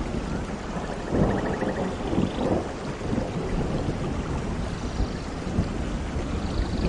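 Steady tropical rain falling on foliage, with a low rumble underneath that swells a couple of times. A few faint, short trilling calls come through the rain, one about a second in and one near the end.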